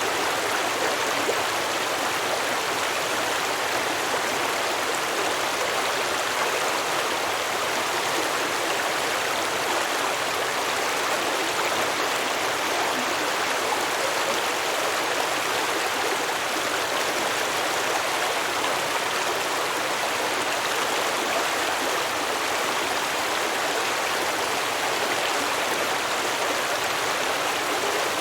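A shallow stream flowing and babbling over rocks, a steady rushing that stays even throughout.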